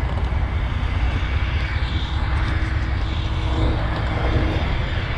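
Heavy diesel truck engine running steadily, a constant low rumble with a faint steady hum over it.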